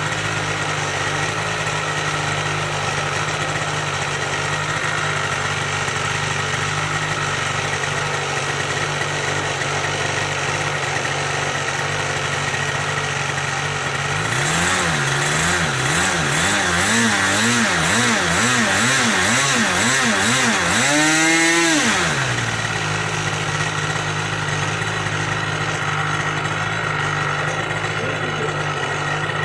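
O.S. 46 AX nitro glow engine on an RC airplane running steadily while being warmed up after long storage. About halfway through, its speed swings up and down about once a second for several seconds, then revs up sharply and drops back to the steady run.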